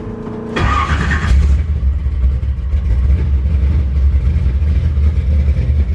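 A 496 cubic-inch big-block Chevy V8 being started after sitting for about two and a half weeks. The starter whirs for about half a second, then the engine catches with a loud burst and settles into a steady, heavy running rumble.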